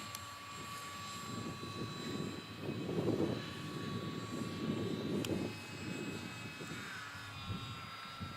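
Electric radio-control model aeroplane's motor and propeller whining steadily overhead, its pitch shifting slightly near the end. A louder low rush swells twice, around three and five seconds in.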